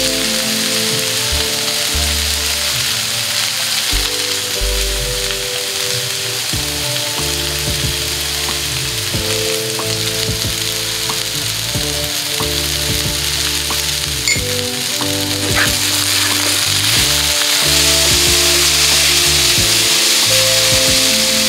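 Food sizzling steadily in hot oil in a pan, with a few sharp clicks of a utensil stirring it.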